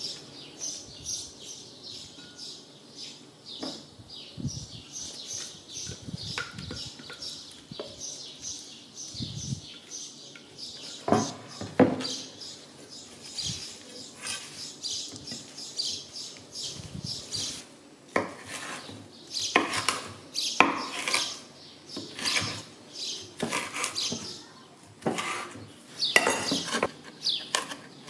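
Scattered taps and clicks of kitchen things being handled, then, in the second half, a knife chopping fresh mint on a wooden cutting board in quick runs of sharp knocks.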